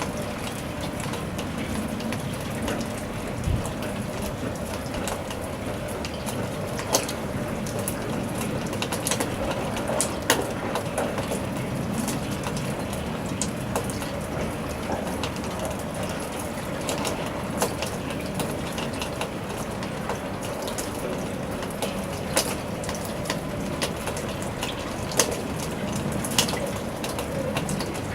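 Steady rain falling, with individual drops tapping sharply at irregular moments.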